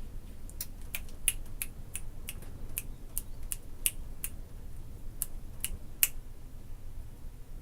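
A run of sharp, quick clicks, about three a second, that stops about six seconds in.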